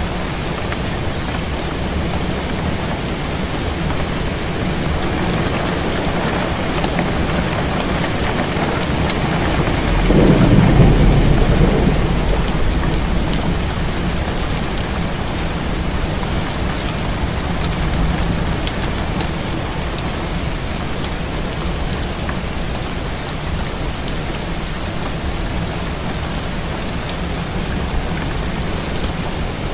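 Heavy rain falling steadily, with a low roll of thunder swelling and fading about ten seconds in and a fainter rumble a little later.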